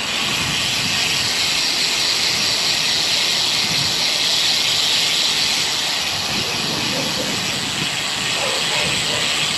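Steady rushing hiss of wind and road noise on the microphone of a moving road bicycle.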